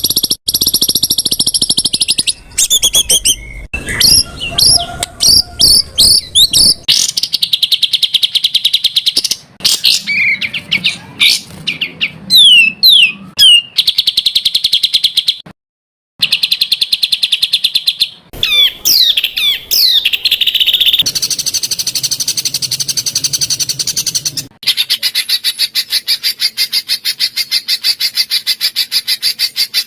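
Songbird masteran track: loud, rapid, closely spaced repeated sharp notes ('tembakan rapat'), with quick sweeping whistles in places. The phrase changes every few seconds, as if spliced from different birds, with a brief silent break about halfway.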